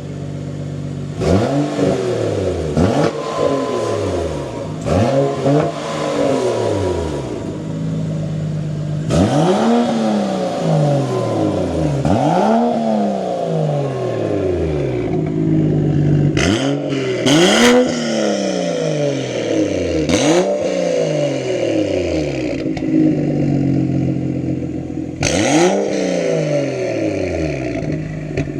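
BMW 135i's turbocharged straight-six revved through a newly fitted aftermarket exhaust, in about ten sharp blips that rise and fall back to idle, some with a sharp crack as they start.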